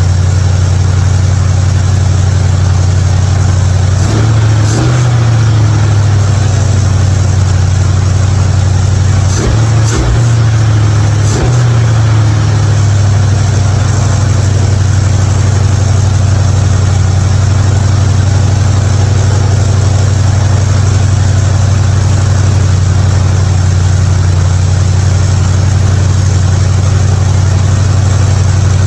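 Hot rod engine running at a steady idle, briefly revved about four seconds in and again a couple of times around ten to twelve seconds in, with sharp clicks at those moments, then settling back to an even idle.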